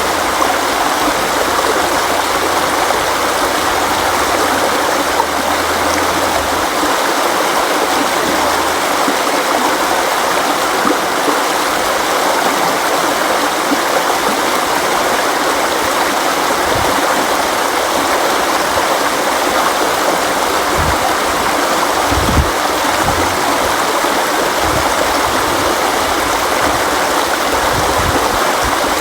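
River water flowing in a steady, even rush, with a few brief low rumbles in the second half.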